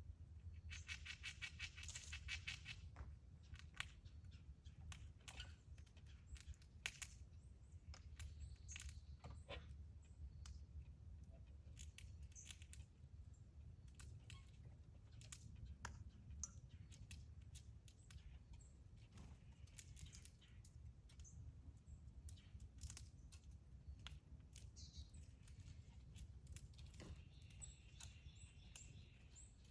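Quiet backyard ambience with scattered sharp clicks over a low steady rumble. A short, rapid run of bird chirps comes about a second in, and another bird call comes near the end.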